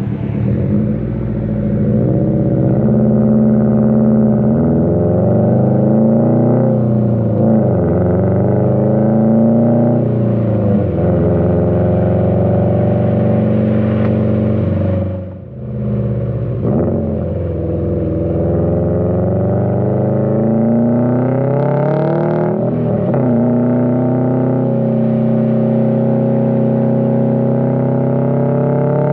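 Subaru WRX STI's turbocharged 2.5-litre flat-four running through an AWE Track exhaust while accelerating through the gears: the engine note climbs in pitch and drops back at each upshift, several times. About halfway through the sound briefly falls away before the engine pulls again, ending with revs rising slowly.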